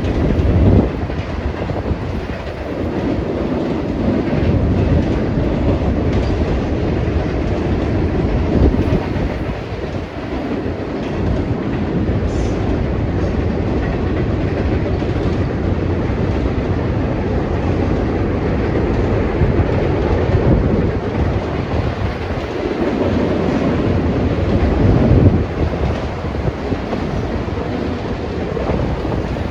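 Freight train rolling past, a continuous loud rumble of its cars on the rails that swells louder a few times.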